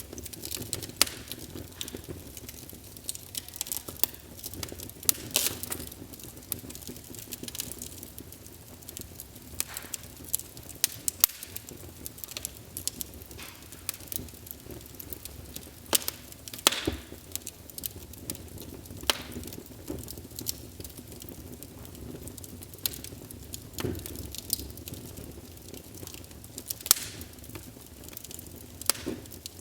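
Wood fire crackling, with irregular sharp pops and snaps over a low, steady hiss of burning.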